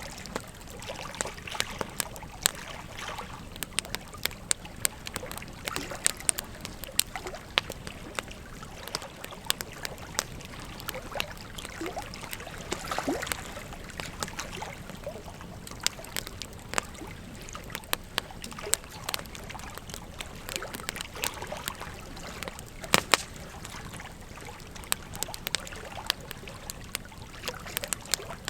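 Wood fire crackling, with sharp irregular pops over the steady rush of a flowing river; a couple of the loudest pops come close together late on.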